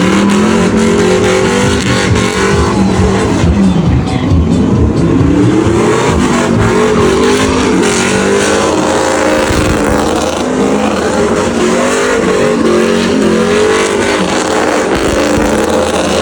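A truck engine revving hard under a driver's foot, its pitch climbing and dropping over and over, as when a truck is being slid sideways.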